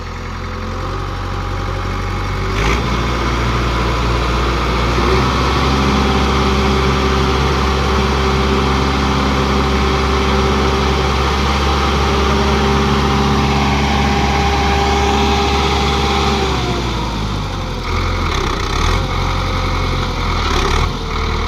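Tractor diesel engine revved up and held hard under load for about fifteen seconds, straining to pull a bogged-down tractor free with a tow chain, then dropping back toward idle near the end.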